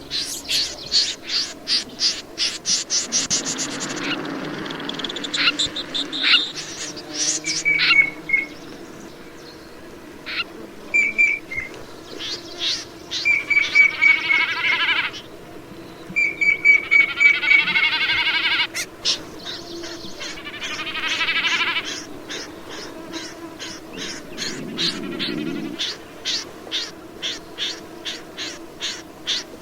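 Calls of the rẽ run bird: a fast series of sharp clicking notes, about four a second, broken in the middle by three buzzy, rattling trills of two to three seconds each, then the clicking series again near the end.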